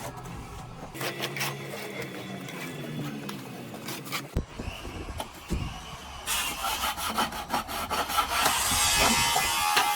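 Hand tool scraping and rubbing over a plastered wall in quick repeated strokes, getting denser and louder in the second half.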